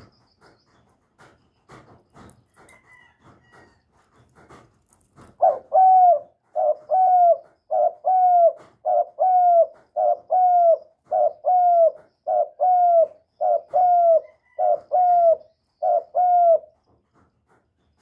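Spotted dove cooing: after a few quiet seconds, a long run of loud, evenly spaced coos, about two a second, each dipping slightly in pitch at its end, which stops shortly before the end.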